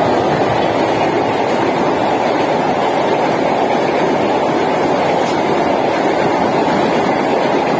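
Container freight train running fast across a steel truss railway bridge close by: a loud, steady rumble of wheels on rail as the wagons pass.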